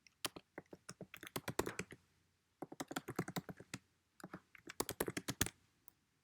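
Typing on a computer keyboard: three quick runs of key clicks with short pauses between them, as a file name is typed in.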